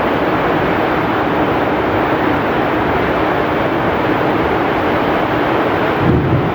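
Heavy rain pouring steadily with strong wind, a dense even hiss; a low rumbling gust swells up about six seconds in.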